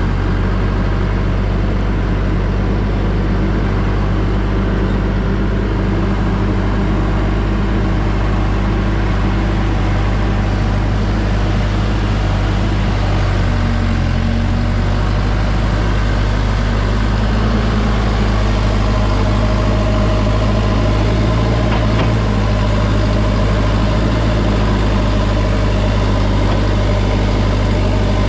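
Backhoe engine running steadily at a constant speed, a loud, even low hum.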